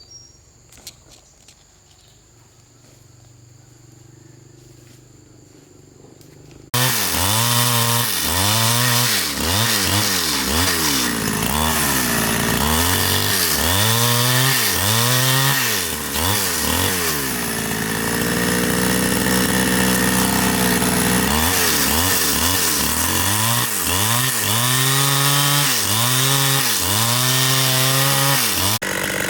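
Large chainsaw running hard, its engine speed rising and falling over and over as it saws into a tree, held steady for a few seconds in the middle. It starts abruptly about seven seconds in, after a quiet stretch with only a faint low hum.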